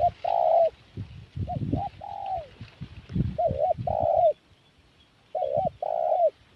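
Spotted dove (tekukur) cooing: four repeated phrases about every one and a half to two seconds, each a short double note followed by a longer coo.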